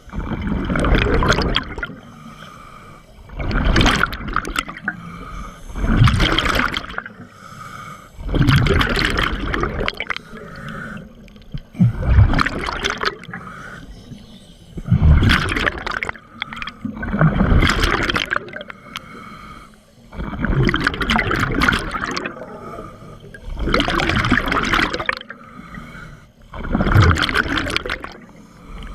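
Scuba diver breathing through a regulator underwater: loud bubbling exhalations every two to three seconds, with quieter breaths drawn in between.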